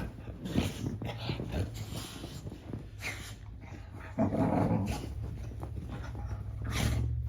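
A dog making a run of low, growl-like vocal noises, with a louder, more pitched stretch about four seconds in.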